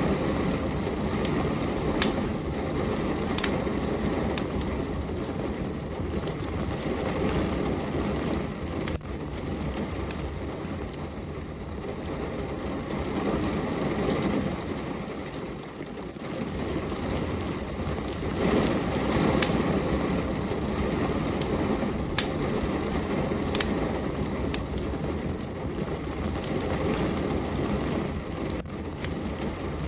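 Steady rain mixed with a burning wood fire: a dense, even rushing noise that swells and eases, with scattered sharp crackles and pops from the fire.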